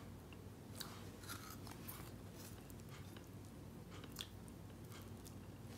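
A person chewing and biting food, with faint, crisp crunches scattered irregularly through it.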